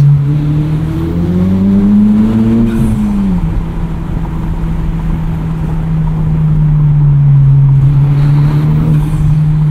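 Modified Honda Civic Type R's turbocharged 2.0-litre four-cylinder, with an Invidia exhaust and Takeda intake, heard from inside the cabin under road noise. The engine note rises for about three seconds as the car accelerates, drops sharply as it changes gear, then settles into a steady cruise.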